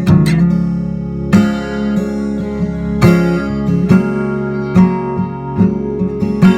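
Acoustic guitar playing chords, with strong strums about every one and a half seconds and notes ringing between them.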